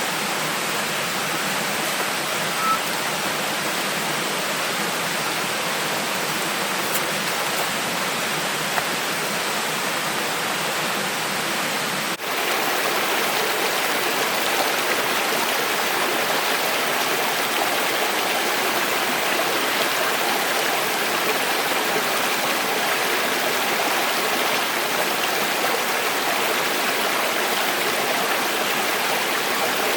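Steady rushing of running water, as of a forest stream. It breaks off for an instant about twelve seconds in and comes back slightly louder.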